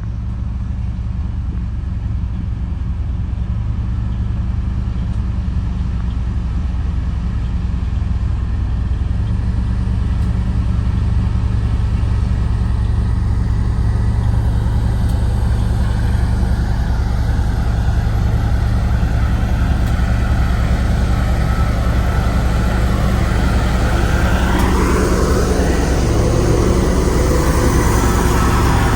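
Diesel engine of a Sakai road roller running steadily at a constant speed, a little louder as it goes on; near the end a rising tone joins in.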